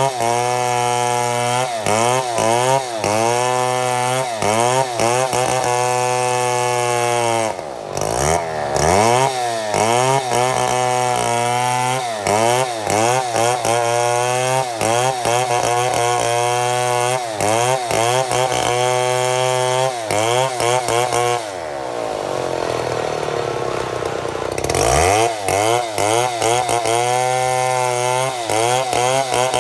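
Chainsaw milling a mahogany log into boards, the engine running hard with its pitch wavering constantly as the chain works through the wood. It dips briefly about eight seconds in, and drops to a lower, steadier tone for a few seconds in the last third before picking back up.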